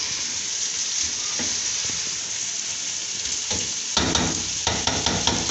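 Taro root with green chillies and coriander sizzling steadily in a cooking pot, nearly cooked through. From about three and a half seconds in, a spoon repeatedly scrapes and knocks against the pot as the mixture is stirred.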